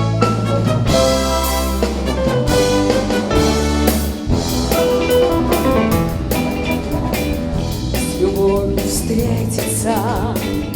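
Brass band with drum kit playing the instrumental introduction of a Soviet pop song: a bass line, brass melody and a steady beat.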